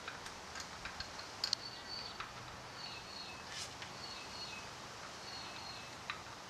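Steady hiss with scattered light clicks and taps, the loudest pair about a second and a half in, and several short high bird chirps.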